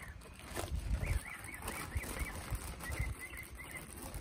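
A songbird calling a quick run of short, up-and-down chirps, over a low rumble on the microphone, with a brief rustle about half a second in.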